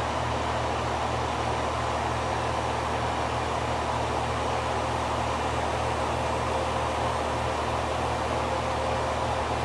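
Late-1970s Amana central air conditioner's outdoor condensing unit running steadily: a low compressor hum under the rush of air from its four-blade condenser fan. A faint steady whine comes up about halfway through.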